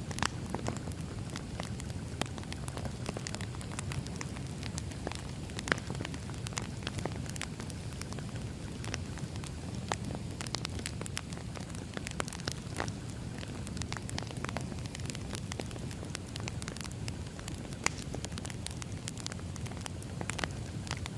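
Firewood burning, crackling and popping irregularly over a steady low rumble of the fire, with a few louder pops.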